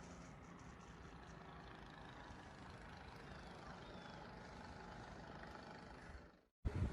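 Faint, steady low hum of a distant vehicle engine. It cuts off abruptly near the end, and a loud low rumble of wind on the microphone follows.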